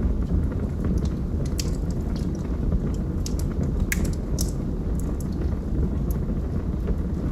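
Log fire burning: a steady low rush of flames with sharp crackles and pops scattered through, the loudest pop about four seconds in.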